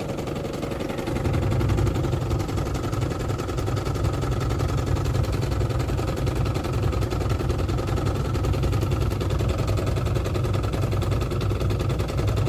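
Gilera DNA scooter engine idling steadily, growing a little louder about a second in, and holding its idle without stalling.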